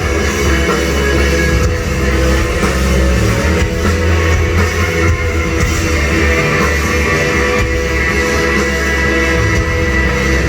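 Live rock band playing loud and steady: electric guitar over bass and a drum kit, with no singing.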